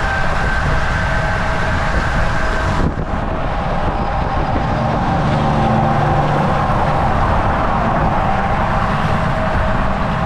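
Volvo VNL 760 semi truck cruising on the highway: a steady engine drone and tyre and road noise, with a few constant whining tones in it. There is a brief dip about three seconds in.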